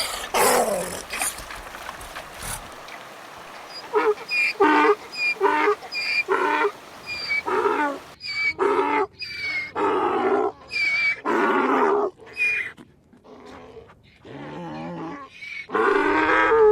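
Donkey braying: a long run of rasping hee-haw calls, one after another, with a short lull about thirteen seconds in and another loud bray near the end.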